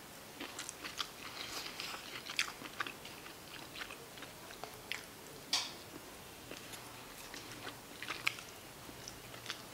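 A person chewing a mouthful of rice and meat close to the microphone, with scattered sharp clicks throughout.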